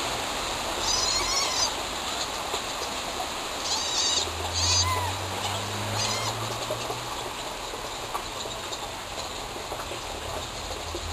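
Short clusters of high, quick chirps from small birds over a steady background hiss, about a second in and again around four to six seconds in.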